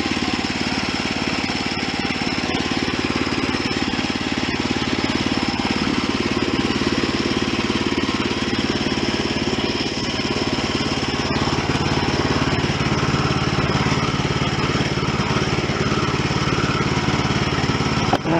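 Gas-engine portable bandsaw sawmill running steadily while sawing a black walnut log into slabs. Its tone shifts slightly about ten seconds in.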